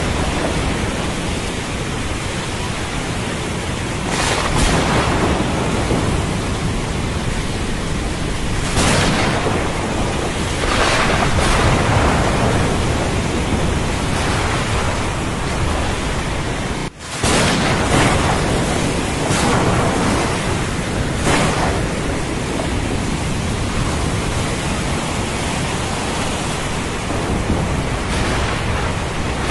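Thunderstorm: steady rain with thunder rumbling, the noise swelling every few seconds and dropping out for an instant about halfway through.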